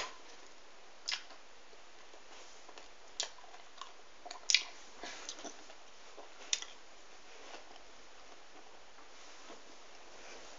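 A person chewing a chewy fruit sweet: scattered soft mouth clicks over a faint hiss, the loudest about four and a half seconds in.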